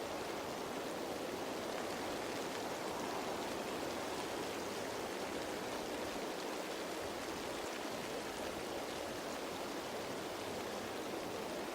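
Rain falling on leaves, a steady, unchanging patter of raindrops.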